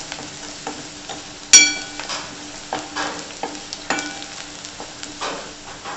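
Onion and ground spices sizzling in hot oil in a stainless steel kadhai while a steel spoon stirs and scrapes through them. The spoon knocks the pan with a ringing clink about a second and a half in, and more lightly near four seconds.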